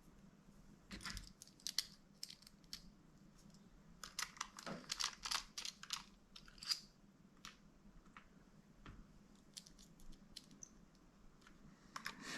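Faint, scattered small clicks and scrapes of hand tools and small screws being handled during laptop disassembly, in a few short clusters.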